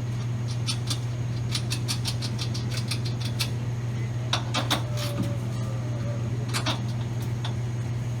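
Hand tools working on engine parts: a quick run of metal clicks and clinks, some in rapid succession, over a steady low shop hum.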